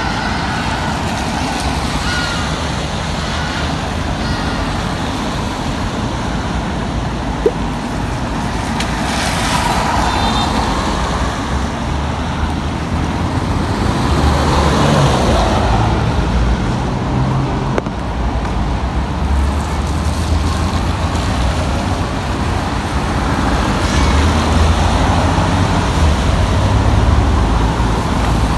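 Road traffic on a wet street: a steady low rumble of vehicle engines, swelling as vehicles pass close by about ten and again fifteen seconds in.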